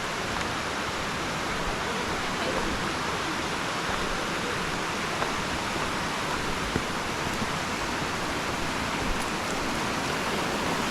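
Steady rushing roar of Aber Falls, a 120-foot waterfall crashing into a rocky pool.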